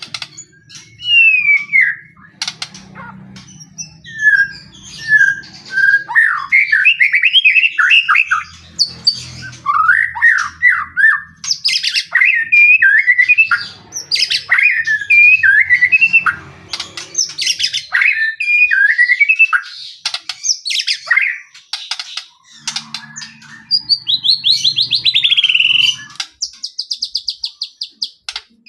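White-rumped shama (murai batu) singing a loud, varied song of rising and falling whistled phrases and fast trills. A rapid, buzzy rattling series comes near the end.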